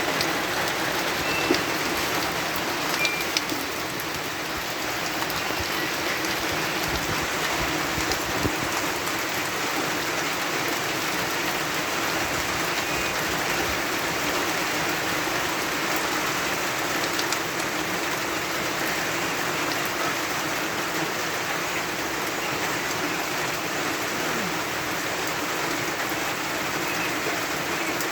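Heavy rain falling steadily, a dense even hiss of many drops, with a few brief louder drips or taps now and then.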